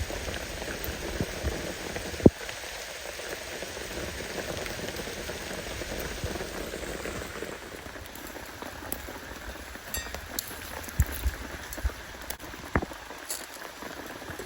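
Steady rain falling on a tarp, with scattered drop ticks and one sharp tap about two seconds in.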